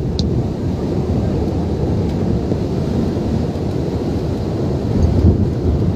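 Typhoon wind blowing hard in a dense, low, continuous rumble with wind buffeting the microphone, swelling in a stronger gust near the end.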